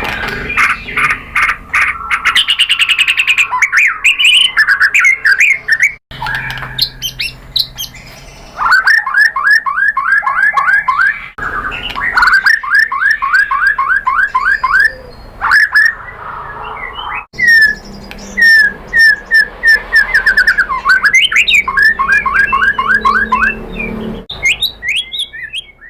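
White-rumped shama (murai batu) singing loud, fast runs of repeated sweeping whistled notes mixed with high chirps and trills. The song comes in phrases broken off abruptly several times.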